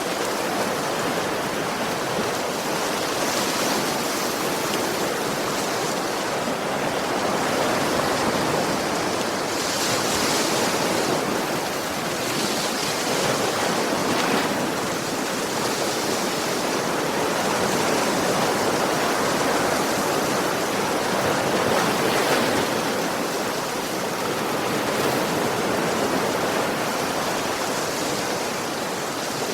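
Ocean surf: waves breaking and washing on a beach in a continuous rush, swelling gently every few seconds.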